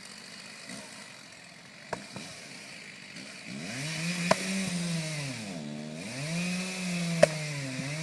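An engine starts up about a third of the way in and runs with its pitch rising and falling, dropping low twice as if it comes under load. Three sharp knocks sound over it, the loudest near the end.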